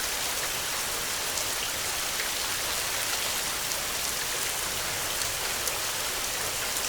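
Heavy rain falling steadily: an even hiss with many small drop ticks, and no thunder.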